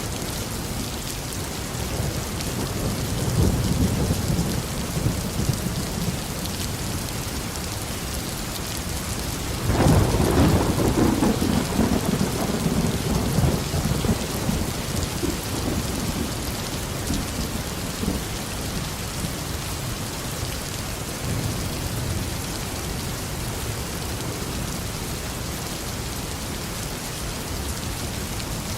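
Steady heavy rain falling on a garden, with rolling thunder: a low rumble a few seconds in and a louder, longer roll starting about ten seconds in that fades slowly.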